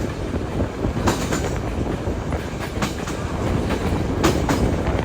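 Railway carriage rolling along the track with a steady rumble, its wheels clicking sharply over rail joints a few times.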